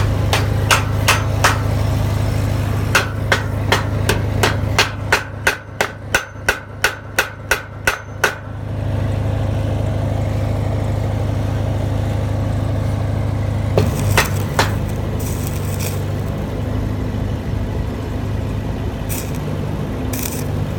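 A hammer striking metal in quick taps, about three a second with a short pause, stopping about eight seconds in, over the steady hum of an engine running. A few more knocks come later.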